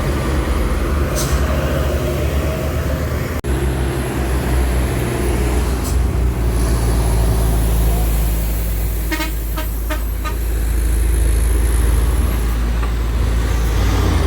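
Heavy truck's diesel engine running with a steady low rumble. About nine seconds in, a horn gives four quick short toots.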